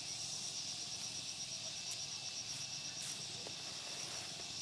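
Insects trilling steadily at a high pitch in a rapid, even pulse, with a few faint clicks scattered through.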